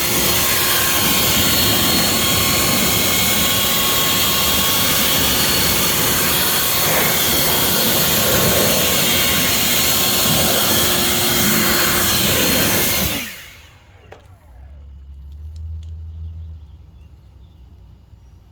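Electric air blower (car dryer) running steadily at full power, a rushing blast of air with a fan whine, then switched off about thirteen seconds in and spinning down with a falling pitch.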